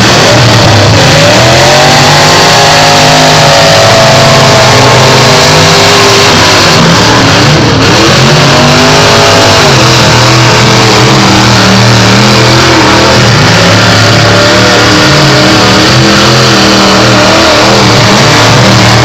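Engines of trucks and SUVs in a demolition derby revving hard, loud throughout, with long sweeps up and down in pitch about a second in and again around eight seconds in.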